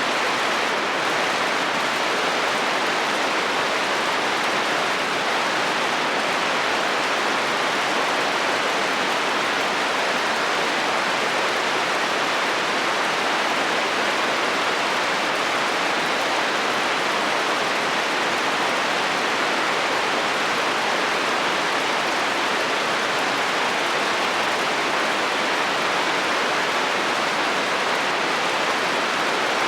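Steady heavy rain drumming on a metal roof, an even hiss with no breaks and no thunder.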